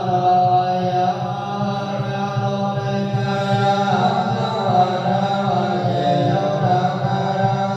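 Buddhist chanting: voices holding long drawn-out notes, the pitch shifting slowly from one held note to the next.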